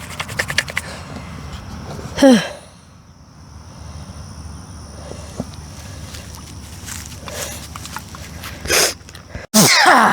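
A man walking outdoors: quick crunching footsteps in the first second, then a falling, breathy "whew"-like sigh about two seconds in, over a steady low outdoor rumble. Another short falling vocal sound comes near the end.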